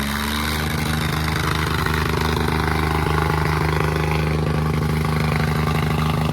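Tractor diesel engine running hard at steady high revs under heavy load, straining in a tug-of-war pull. The pitch holds steady, and the sound drops away near the end.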